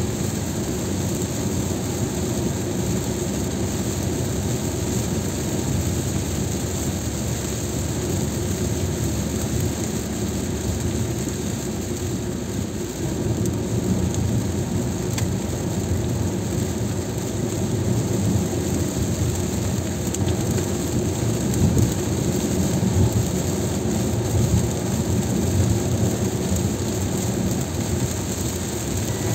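Car driving through heavy rain: a steady rumble of tyres on the wet road, with rain hitting the car.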